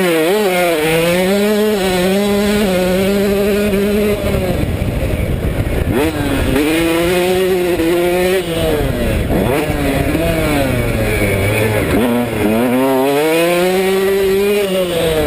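KTM 150SX single-cylinder two-stroke engine revving hard under throttle. The pitch sweeps up quickly, holds high while wavering, and falls back briefly about four, six, nine and twelve seconds in before climbing again.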